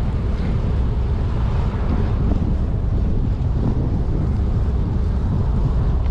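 Strong wind buffeting a cyclist's camera microphone: a steady, loud low rumble.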